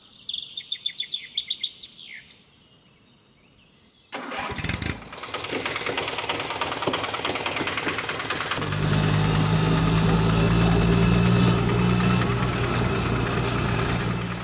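A short bird-like chirping trill, then after a quiet pause a vehicle engine starts abruptly about four seconds in and keeps running. About halfway through, a steady low engine drone joins it and gets louder.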